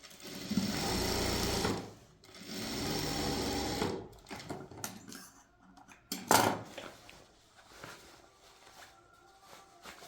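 Sewing machine stitching in two short runs of about a second and a half each, then stopping. A sharp knock follows about six seconds in, with faint small clicks after it.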